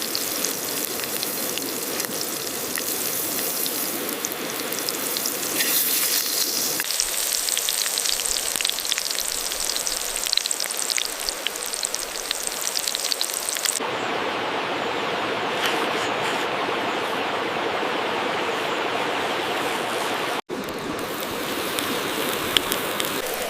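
Burger food sizzling on a hot stone: a steady crackling hiss full of fine pops. The sound changes character abruptly about a third and about two thirds of the way through, and cuts out for an instant near the end.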